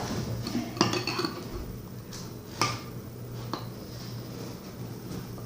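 A big spoon stirring a runny arrowroot, flour and water mixture in a bowl, knocking and scraping against the bowl several times, over a steady low hum.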